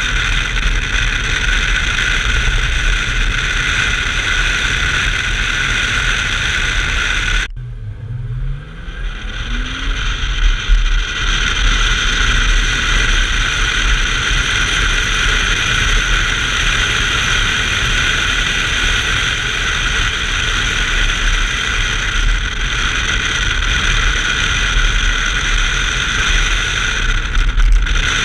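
Onboard sound of a 1990 BMW 325i's 2.5-litre straight-six at speed on track, a loud steady mix of engine, wind and road noise. About seven seconds in, the noise suddenly drops away and the engine is heard rising in pitch as it accelerates, before the full noise returns.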